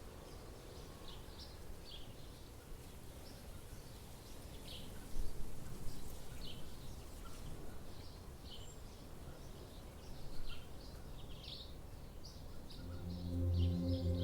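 Forest ambience of small birds chirping again and again, with short high calls over a low steady rumble, and two brief low thumps about five and ten seconds in. A soft music pad with a low drone swells in near the end.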